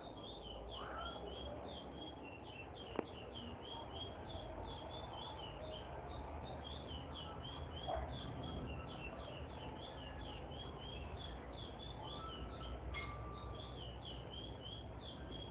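A bird chirping continuously: short high notes repeated about three or four a second, with a sharp click about three seconds in and a soft knock near eight seconds.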